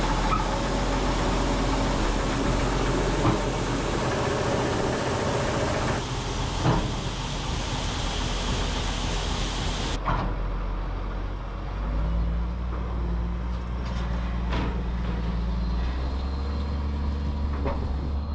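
Heavy diesel engines of harvest machinery and trucks running steadily, in several shots cut together, the sound changing abruptly twice.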